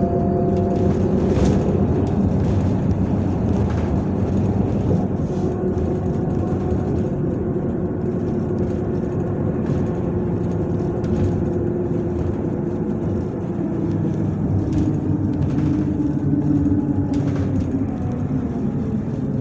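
MAZ-103 city bus running under way, heard from inside the cabin: steady engine and road noise with a faint whine that drifts slightly in pitch.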